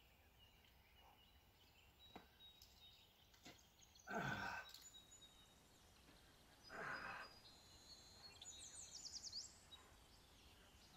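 A climber's two short, loud grunts of effort, about three seconds apart, on hard moves, over faint bird chirps.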